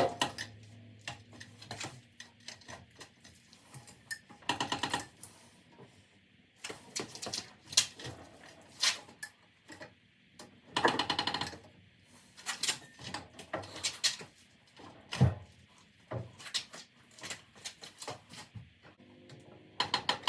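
Irregular metallic clicks and knocks with a few short squeaks and creaks as a trolley jack lowers an air-cooled Porsche 911 flat-six engine and transmission out of the car. The loudest knock comes right at the start.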